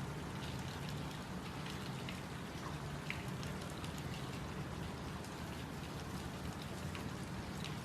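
Steady rain falling, with many separate drops pattering and ticking on a surface.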